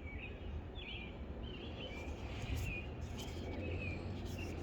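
Birds chirping, many short wavering calls, over a steady low outdoor rumble.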